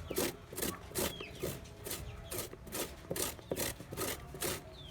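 Plantain being ground and crushed by hand: a steady run of short rasping strokes, about three a second.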